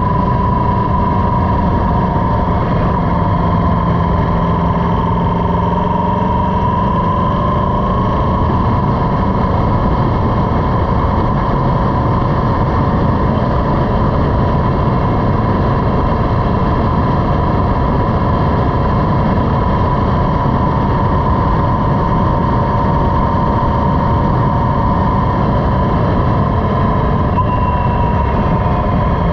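Motorcycle running at a steady speed, its engine under heavy wind rush, with a wavering tone high above the engine note.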